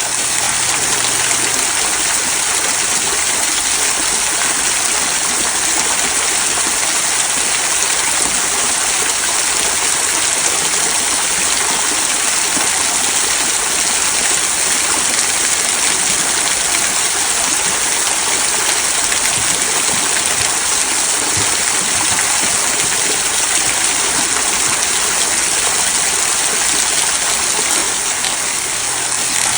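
Small rock waterfall trickling down stones into a stream below: a steady, even rush of falling and babbling water.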